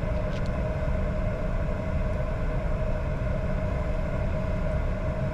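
Cockpit noise of a Bombardier Challenger 605 taxiing with its two GE CF34 turbofans at idle: a steady low rumble with a constant hum over it.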